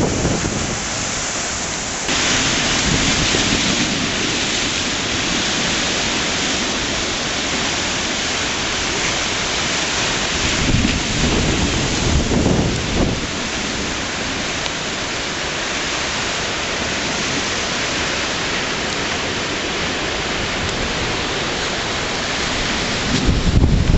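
Typhoon storm noise: a steady, rain-like rushing hiss, with a few deeper surges around the middle.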